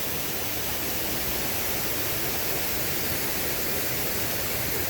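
Waterfall heard close up from its foot: a steady, unbroken rush of falling water.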